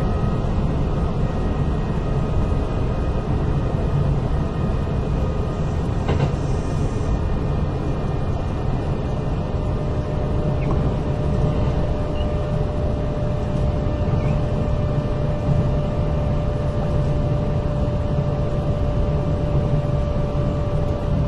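Kintetsu 8000 series electric train car under way, heard from inside the cabin: a steady low rumble of wheels on rails with a faint steady whine above it. One click about six seconds in.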